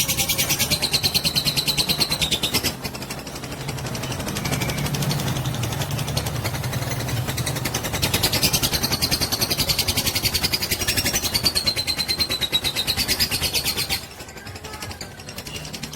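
Fighter lovebird chattering in a long, rapid, unbroken trill (ngekek), in two long bouts: the first stops about three seconds in, the second runs from about eight to fourteen seconds. A low hum fills the gap between them.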